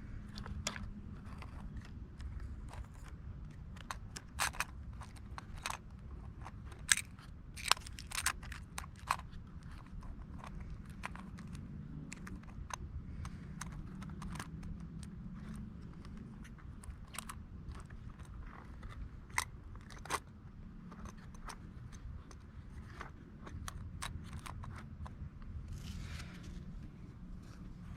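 Scattered sharp clicks and taps of small model garbage trucks being handled, their parts moved, over a low steady hum; the clicks come thickest in the first third.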